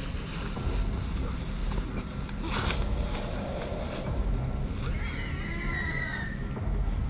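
Wind buffeting the microphone with a steady low rumble, joined about five seconds in by a short, wavering high-pitched call.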